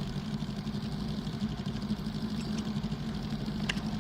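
Vehicle engines idling steadily with a fast, even low throb.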